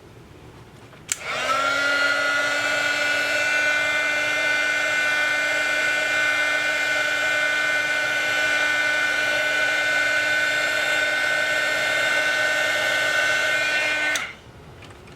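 Hot-air gun switched on about a second in: its blower motor spins up to a steady whirr with a high whine, runs for about thirteen seconds, then switches off. This is typical of heating to soften the adhesive under a phone's rear camera lens glass.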